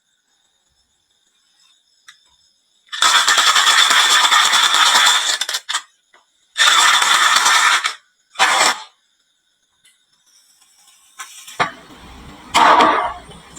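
Marbles rolling and rattling down a wooden marble-run track in three loud runs, the last one short, then a lower rolling rumble from about twelve seconds in.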